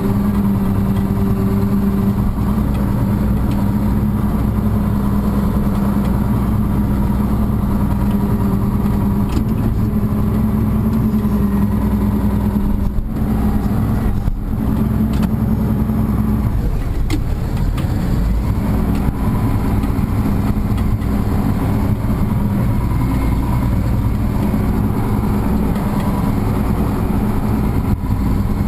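Farm tractor engine running steadily under working load, its note shifting slightly in pitch now and then as the load changes, while it scrapes frozen cow manure.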